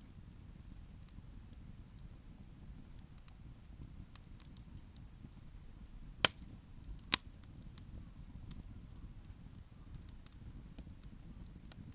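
Wood campfire crackling with scattered faint ticks over a low steady rumble. Two sharp, loud pops from the burning wood come about a second apart just past the middle.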